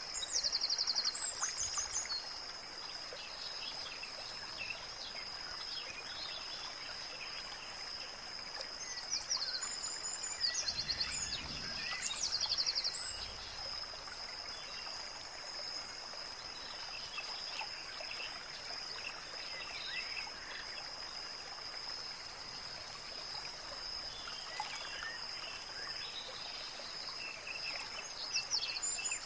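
Nature ambience: birds calling in a few short rapid trills over a steady hiss like running water and a constant high-pitched tone.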